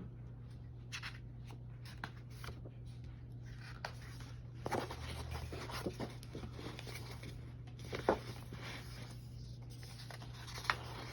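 Soft rustles and small clicks of a picture book's paper pages being handled and turned, over a steady low hum.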